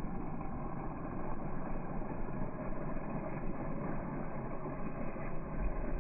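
Motorcycle running, a steady muffled engine noise with no sharp events.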